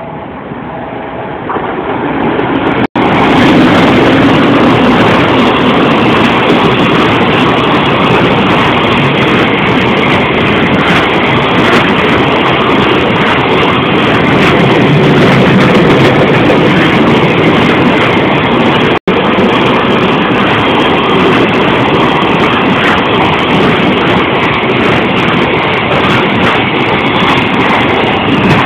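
Freight train of container flatcars hauled by an EF510 electric locomotive passing at speed: a loud, continuous rumble and clatter of steel wheels on the rails that builds over the first two seconds and then holds steady. The sound cuts out for an instant twice.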